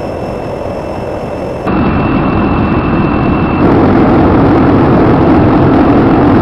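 Loud, steady roar of jet aircraft engines that jumps abruptly louder twice, about two seconds in and again near four seconds, with a thin high whine during the middle stretch.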